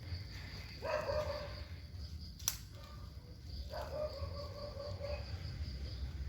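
Three drawn-out animal calls: one about a second in, a longer one past the middle, and another starting near the end. A single sharp click sounds between the first two.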